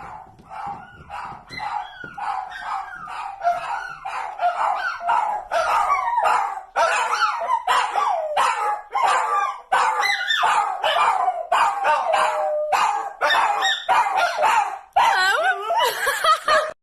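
Pet dogs vocalizing together: pitched howls and whines that rise and fall, mixed with short yips and barks. The calls grow louder about five seconds in.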